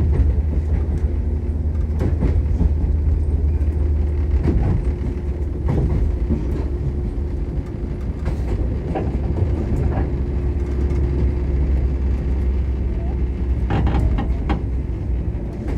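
Shinano Railway 115-series electric train running, heard from on board: a steady low rumble with a steady hum, and now and then the clack of wheels over rail joints, two close together near the end.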